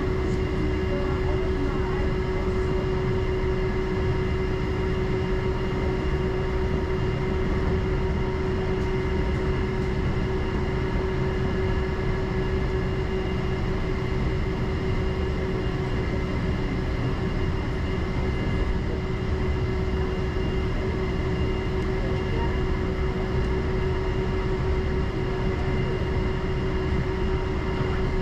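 Steady running noise heard from inside an airport people-mover train in motion, a constant rumble with a steady hum held at one pitch throughout.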